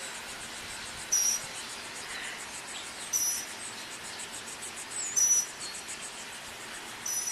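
Night insects calling: a short high chirp about every two seconds over a faint, steady, rapidly pulsing high buzz.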